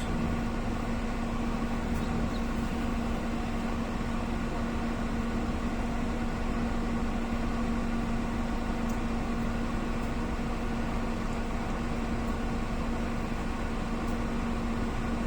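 Steady mechanical hum of a running motor, even throughout, with a constant low tone and fainter steady overtones above it.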